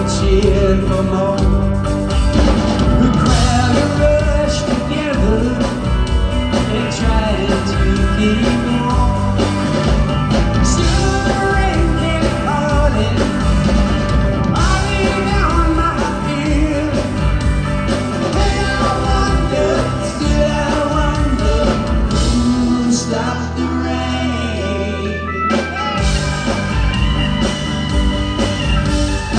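Live rock band playing a mid-tempo song with a lead vocal, a Rickenbacker electric guitar, bass and drums. About 23 seconds in the deepest bass drops out for a few seconds, leaving a held low note, and then the full band comes back in.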